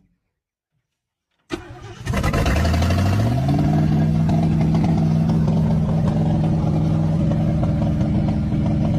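An old car engine is cranked on the starter, catches about two seconds in, revs up over about a second and settles into a steady fast idle.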